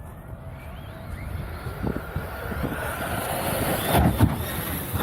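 Radio-controlled car driving toward the microphone, its motor and tyre noise getting steadily louder, with a few knocks about two and four seconds in.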